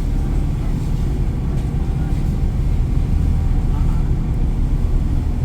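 Steady low rumble aboard a boat under way: engine drone mixed with wind noise.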